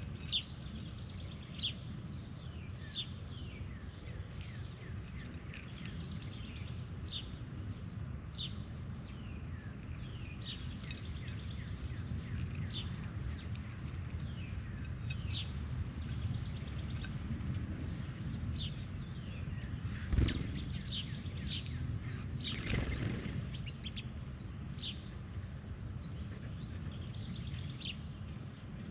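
Birds chirping, short high chirps about once a second, over a steady low background rumble, with one sharp thump about two-thirds of the way through.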